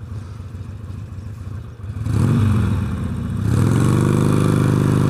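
Motorcycle engine revved hard about two seconds in, easing briefly and then held at high revs, in place of a horn to get another driver's attention.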